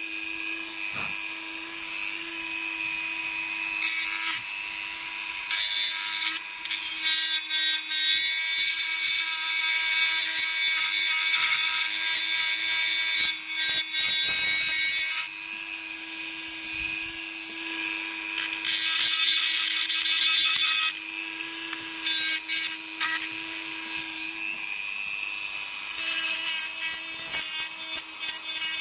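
A handheld power tool running steadily, with a continuous abrasive scraping that swells and eases as it is worked against the metal.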